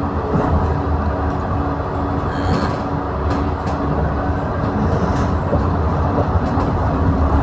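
Steady rumble of a moving train heard from on board, with a constant hum and a few light clicks.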